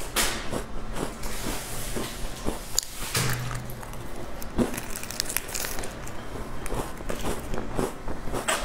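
Crisp biscuits being bitten and chewed close to the microphone: a steady run of sharp crunches.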